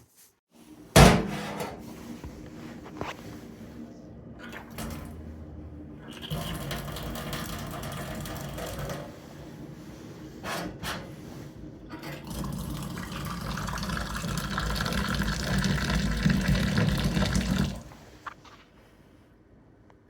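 A sharp knock about a second in, then water being run or poured into a vessel in two stretches, the longer second one building in loudness before stopping near the end.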